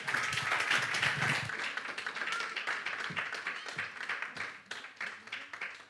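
Congregation applauding, loudest at the start and thinning out to a few scattered claps by the end.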